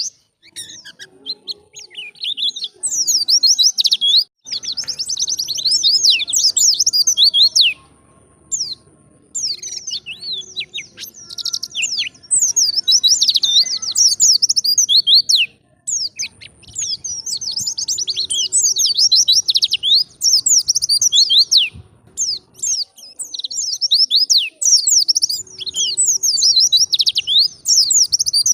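A white-eye (pleci) singing a fast twittering song of quick, high chirps. It comes in bouts of a few seconds with short pauses between them.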